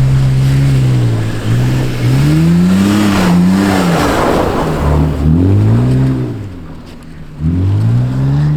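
A drifting car's engine revving hard and easing off again and again, its pitch rising and falling several times, with a rushing noise around three to four seconds in. It drops away briefly near seven seconds, then revs up again.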